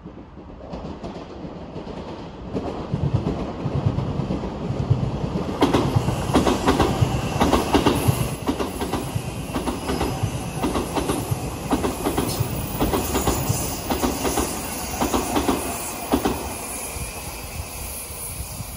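Odakyu Line electric commuter train passing on the tracks: its running noise builds up, then a long run of rhythmic clickety-clack from the wheels over the rail joints for about ten seconds before it fades away near the end.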